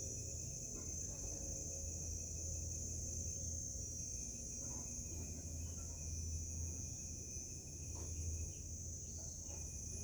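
Steady chorus of insects with a continuous high buzz, over a low steady rumble of wind. A few faint short calls come through now and then.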